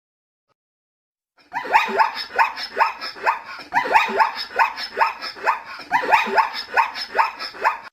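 A dog barking in a fast, steady run of short barks, about three a second, starting about a second and a half in.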